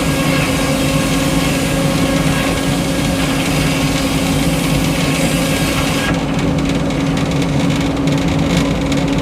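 Frick sawmill with its power unit engine running steadily at a constant pitch. A higher hissing noise over it stops abruptly about six seconds in, while the engine keeps running.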